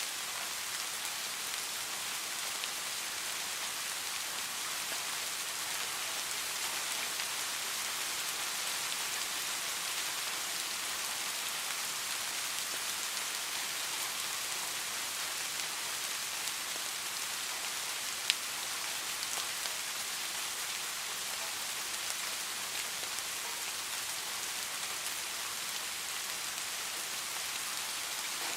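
Steady rain falling on a surface: an even hiss with faint scattered drop ticks, and one sharp, louder tick about two-thirds of the way through.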